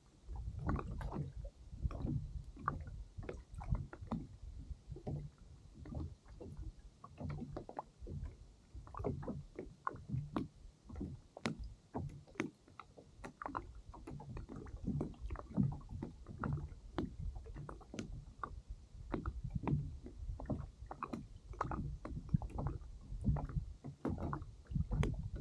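Water slapping and sloshing against a kayak's hull, with many irregular knocks and bumps.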